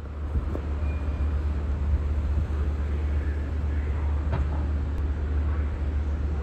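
Steady low rumble of a commuter train standing at a station platform, with station noise around it and a single sharp click about four seconds in.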